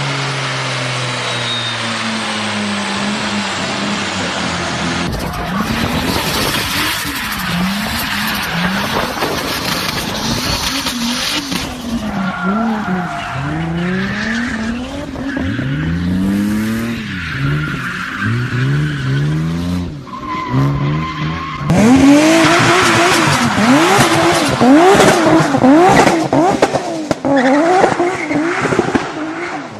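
Toyota Supra engine and exhaust, first winding down from high revs, then revving hard with its pitch repeatedly rising and falling, across several clips cut together.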